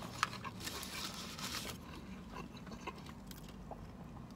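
Quiet close-up chewing of crispy fried popcorn chicken, with small crunches and mouth sounds. A few light clicks and rustles come from handling a sauce cup and packet.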